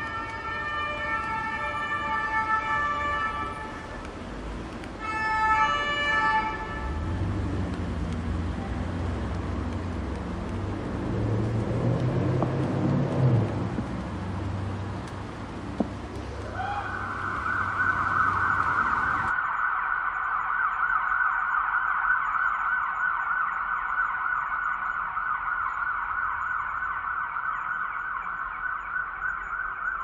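An emergency vehicle siren: past the halfway point it comes in with a rising sweep, then warbles rapidly and continuously at a high pitch. Before that, street traffic rumbles, with a loud, steady chord-like tone sounding twice near the start.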